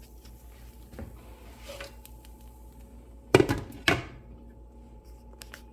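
Two loud clunks about half a second apart, each ringing briefly, over a faint steady hum.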